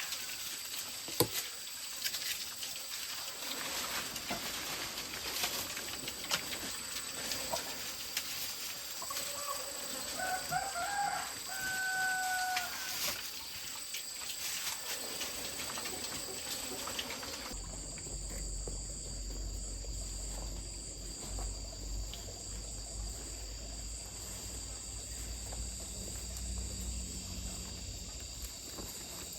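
A rooster crowing, one crow about ten seconds in, among scattered clicks. About halfway through, the background changes abruptly to a low steady rumble.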